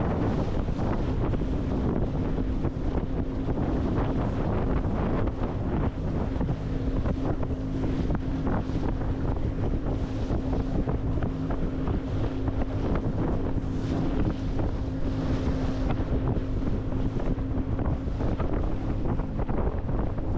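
Boat motor running at a steady pitch, which settles in about two seconds in, under heavy wind buffeting the microphone.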